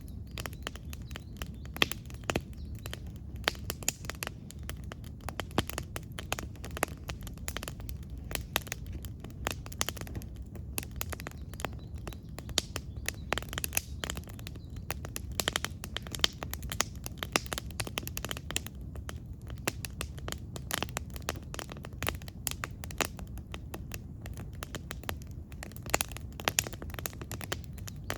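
Campfire wood burning, crackling and popping irregularly with many sharp snaps a second, over a steady low rumble.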